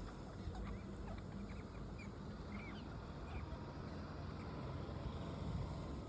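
Pet parrots chirping: a scatter of short, high chirps in the first half, over a low steady rumble.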